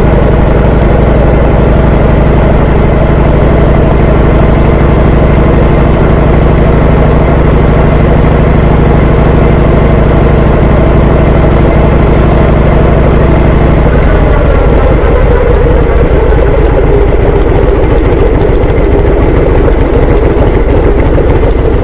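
An engine running steadily, its sound changing in character about fourteen seconds in.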